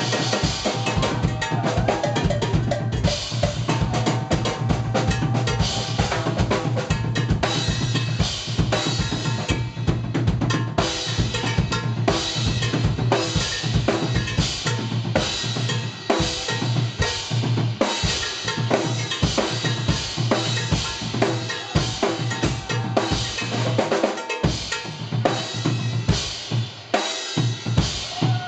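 Drum kit and percussion playing a busy passage of dense, rapid hits on bass drum, snare and cymbals, in a live jazz-funk band. Other pitched instruments show only faintly, mostly near the start and the end.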